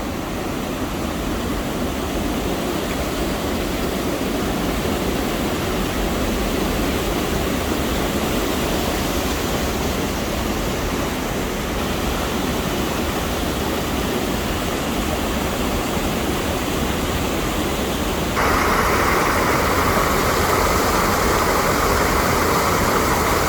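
Water rushing steadily over a small waterfall at a dam. About 18 seconds in, it jumps louder and brighter.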